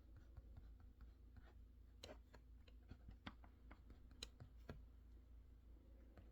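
Faint, irregular clicks and taps from work at a desk, most frequent in the middle, over a low steady hum.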